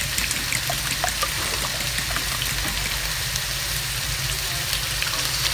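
Chicken and garlic sizzling steadily in hot oil in a wok, with a few light clicks of a fork against a ceramic bowl as eggs are beaten in the first second or so.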